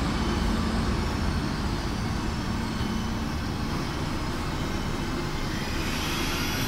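Steady low rumble and hum of a passenger train standing at the platform, its machinery and ventilation running, with a little more hiss near the end.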